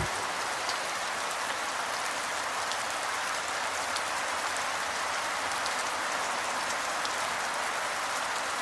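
Recorded rain ambience, steady rain falling with scattered drop ticks and no music.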